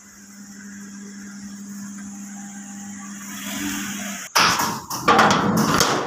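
A car engine idling with a steady low hum that slowly grows louder, then, from about four seconds in, loud clattering and knocks as a door is handled and closed.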